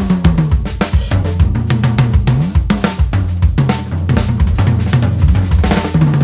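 Drum kit played in a steady groove of bass drum, snare and cymbals, with tom notes whose pitch bends up and down as compressed air from an air compressor is blown into the drums and stretches the heads.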